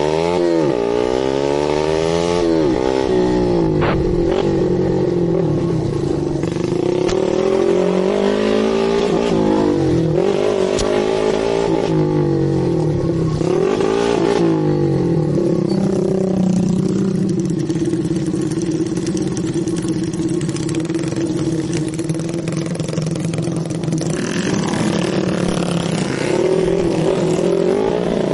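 Dirt bike engine revving, its pitch rising and falling again and again, then holding steadier for several seconds past the middle before revving up and down again near the end.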